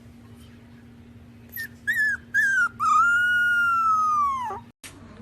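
A dog whining: three short high whimpers, then one long drawn-out whine that falls in pitch at its end and cuts off suddenly.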